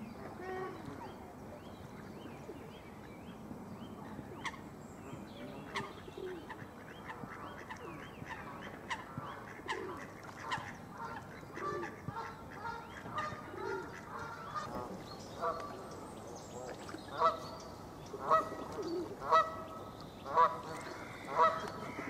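Birds calling: scattered short calls and chatter, then from about two-thirds of the way in a loud, harsh call repeated about once a second.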